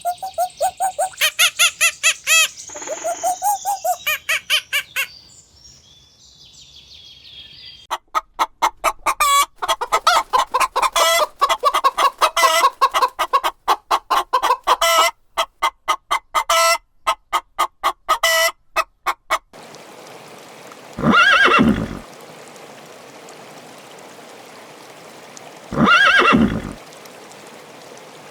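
Chickens clucking in rapid runs of short calls, then two separate longer calls about five seconds apart over a steady background hiss.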